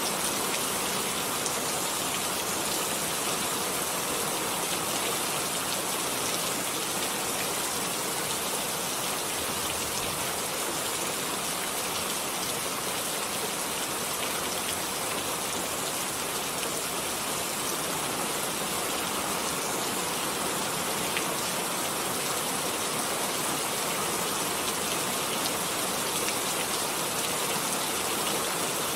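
Steady rain falling, a dense even hiss of many drops hitting surfaces, with fine individual drop ticks throughout.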